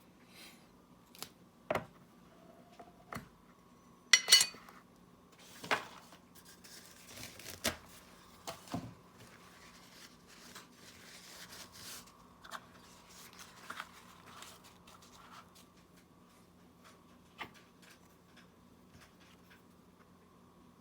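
Scattered small clicks and taps, with a stretch of light scraping in the middle, from small hand tools working on the parts of a Galaxy Gear S3 smartwatch during a side-button cable repair. There is a loud double click about four seconds in, and a faint steady hum underneath.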